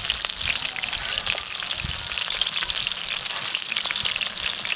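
Food frying: a steady, dense sizzle with many small pops and crackles.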